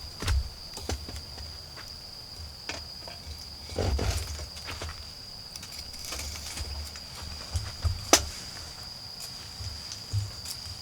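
Wood fire crackling, with irregular sharp pops and snaps, the loudest a little after 8 seconds in. Under it runs the steady high trill of autumn insects such as crickets, with a low rumble beneath.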